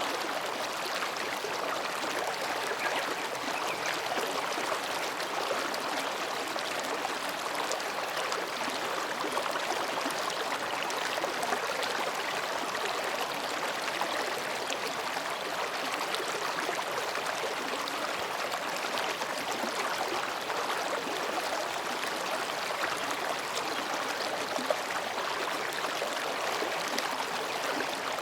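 Mountain stream flowing quietly between rocks, a steady babbling and gurgling of water.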